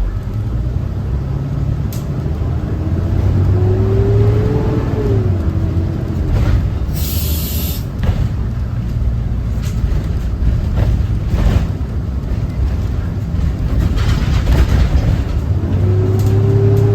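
School bus's Cummins ISB 6.7 diesel engine pulling under way, its pitch rising as the bus accelerates and dropping at a gear change about five seconds in, then climbing again near the end. A short hiss of air sounds about seven seconds in.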